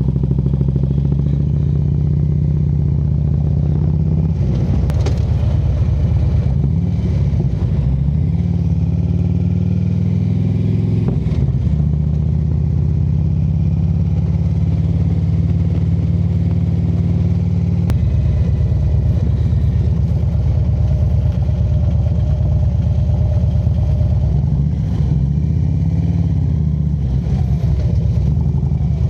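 Harley-Davidson V-twin motorcycle engine running under the rider at low speed, its note rising and falling with throttle and gear changes a few times, and shifting abruptly a little over halfway through.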